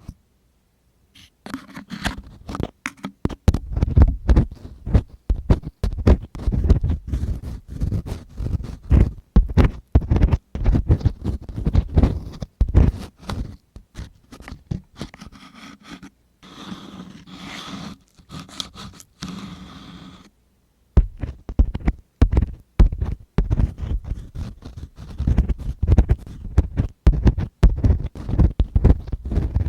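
ASMR ear cleaning: a tool scraping and scratching right against the microphone in quick, irregular strokes that come with a low rumble. There are two brief pauses, one near the start and one a little after the middle.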